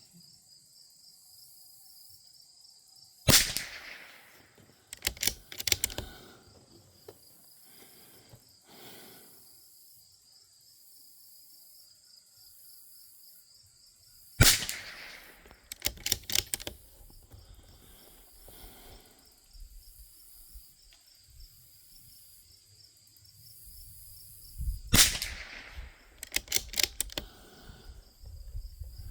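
Three shots from a Bergara B14R .22 LR bolt-action rifle, about eleven seconds apart. Each shot is followed a second or two later by a quick run of clicks as the bolt is worked to chamber the next round.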